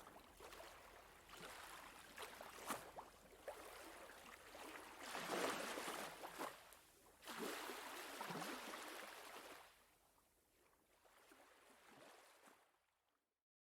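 Faint sea water washing and lapping at the shore, with two louder washes in the middle, fading out just before the end.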